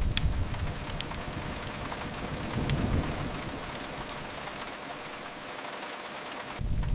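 Steady rain on a window mixed with a crackling fireplace, with a few sharp pops in the first second or so. A low rumble underneath fades out about a second in and swells briefly again about three seconds in.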